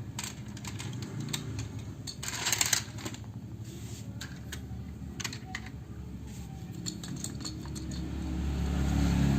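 Clicks and rattles of plastic toy parts being handled, with a short rattling burst a few seconds in. A low rumble builds up near the end.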